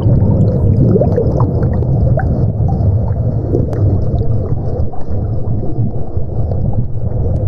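Steady, low underwater-style water rumble with scattered faint clicks.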